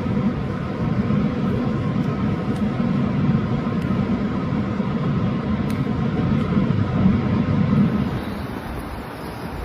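Steady vehicle running noise with a few steady tones above it. About eight seconds in it gives way to a softer, even rush like wind.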